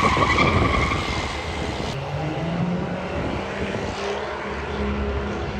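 High-horsepower truck engine running hard. A high, steady squeal fades out in the first second, then a steady low engine tone holds through the rest.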